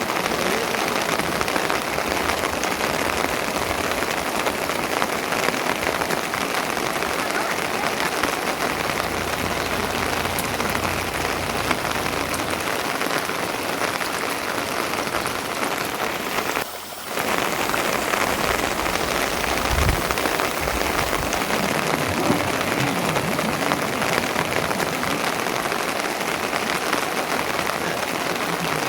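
Steady rain falling, an even hiss of drops with a brief dip in level about two-thirds of the way through.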